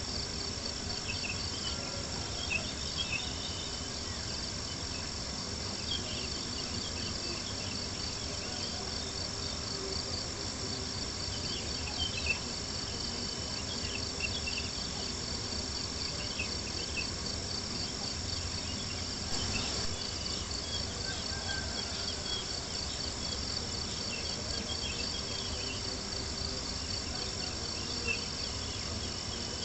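Crickets chirping in a steady, high, pulsing chorus, with scattered small pops and crackles from a wood campfire over a low steady hush.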